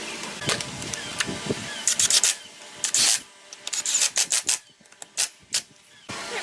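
Irregular rubbing and scraping strokes of hand work on a part. There is a cluster of loud strokes near the middle and a few short sharp ones later, with quieter gaps in between.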